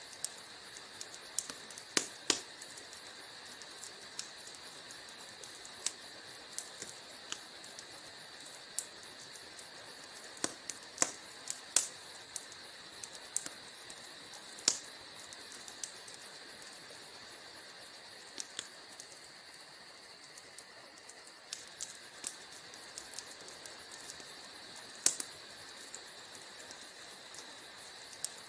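Wood fire crackling in a fireplace: a steady hiss with irregular sharp pops and snaps, the loudest about two seconds in, around eleven to twelve seconds, and near twenty-five seconds.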